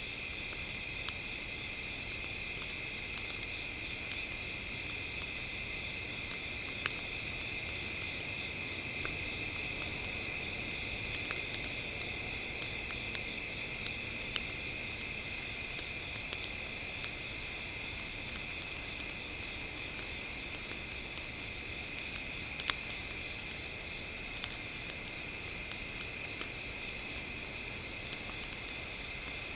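Campfire crackling with sparse small clicks and a few louder pops, over a steady high-pitched hiss in several bands that sounds like insects chirring.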